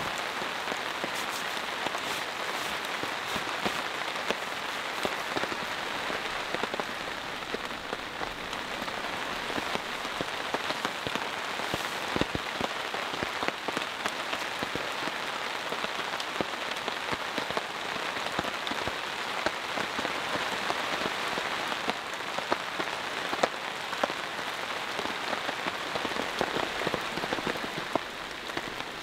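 Heavy rain pouring steadily onto a tarp overhead, with many single drops ticking sharply over the hiss of the downpour.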